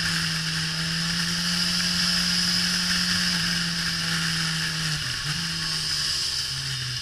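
Suzuki GSX-R1000 K5's inline-four engine running at a steady high speed under throttle, with a high-pitched whine and wind noise over the bike at track speed. Its pitch dips briefly about five seconds in, then steps down near the end.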